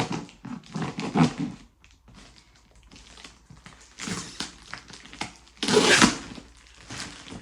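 Tightly taped parcel packaging being pulled and torn open by hand: irregular bursts of rustling and crackling, the loudest about six seconds in.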